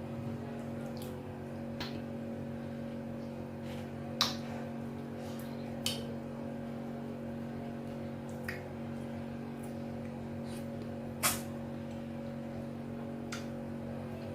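Close-up eating sounds of soft amala and slimy ewedu soup: a few scattered sharp, wet mouth clicks and smacks over a steady background hum.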